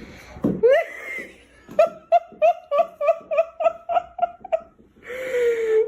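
A person laughing: a rising exclamation, then a rapid run of about ten high-pitched 'ha's at about three a second, ending in a drawn-out falling vocal sound.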